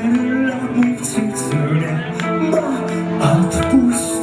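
Live rock band playing: a voice sings a drawn-out melody over guitars, with drum and cymbal hits marking the beat.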